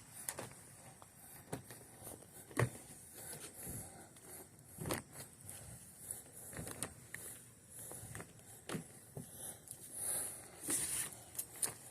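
A chamois being wiped over a wet car body: irregular rubbing swishes with scattered soft knocks and handling noise.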